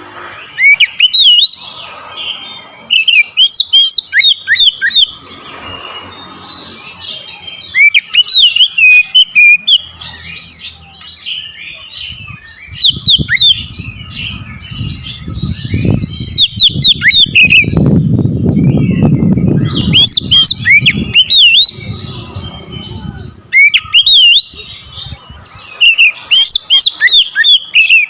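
Oriental magpie-robin (kacer) singing loudly in repeated bursts of fast, sweeping whistled phrases. This is the hard, combative song of a bird stirred up by a rival. A low rumble runs under the song through the middle stretch.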